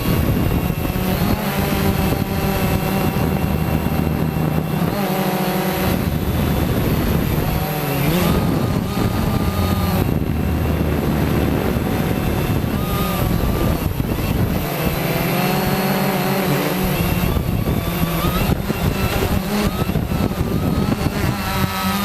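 Quanum Nova quadcopter's electric motors and propellers whining, the pitch sliding up and down again and again as the throttle changes, over a noisy rush of air.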